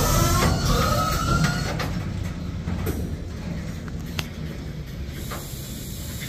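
Freight train boxcars rolling slowly to a near stop: steel wheels squeal faintly for the first second and a half over a low rumble that fades away, broken by a few sharp clanks from the cars.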